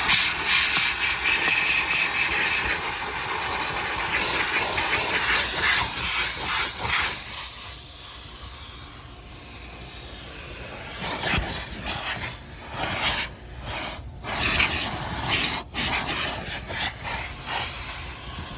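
Car wash vacuum hose sucking air through its nozzle tool while cleaning a car's interior: a steady hiss that rises and falls as the nozzle is moved and pressed against surfaces, quieter for a few seconds in the middle, with short crackles and rattles of debris going up the hose.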